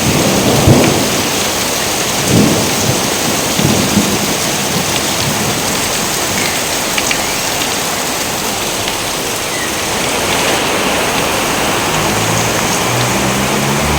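Steady heavy rain with thunder: sharp cracks and rolls of thunder about a second in, again after two seconds and near four seconds, then a low rumble near the end.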